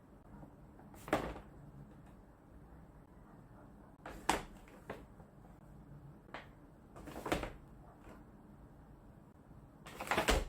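Household handling sounds: a handful of separate knocks and clatters a second or more apart, typical of cupboard doors and items being set down and put away, with the loudest clatter near the end.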